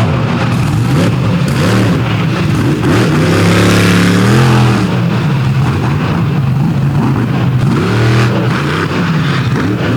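Monster truck's big Chevrolet engine revving hard and easing off again and again, its pitch climbing and falling several times.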